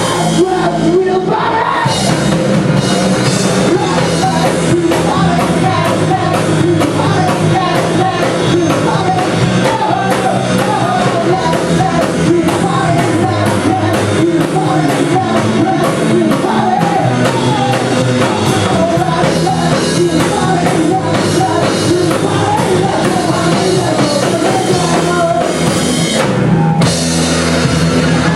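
Live rock band playing, a singer over drum kit and band, with a brief break in the cymbals and high end a little before the end.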